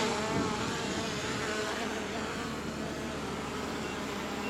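Drone propellers buzzing as it comes in to land, the pitch wavering up and down, over a vehicle engine running.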